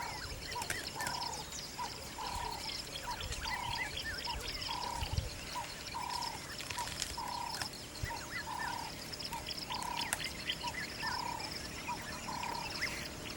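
Wild natural ambience: an animal repeating a short call at an even pace, long and short notes alternating, over scattered bird chirps and a steady high insect buzz.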